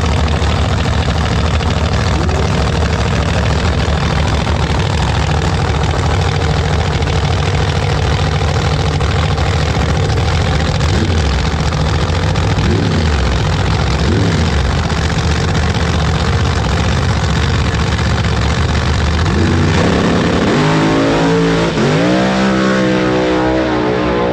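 Truck engines running at a heavy steady drone, then revving up near the end in rising sweeps of pitch.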